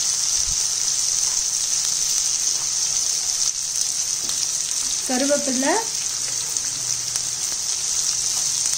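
Sliced onions, fennel seeds, green chillies and curry leaves sizzling steadily in hot oil in a pan, a continuous high hiss.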